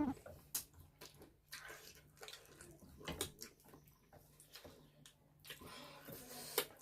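Wet eating sounds at close range: chewing and mouth noises of a spicy noodle and chicken-feet meal, with a few short clicks and a longer wet stretch near the end.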